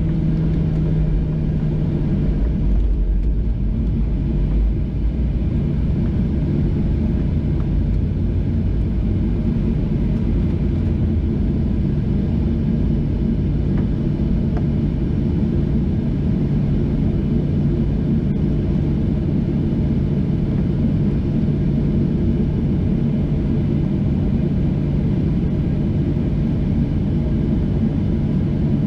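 Steady low rumble and hum of a Boeing 737-700 with its engines running.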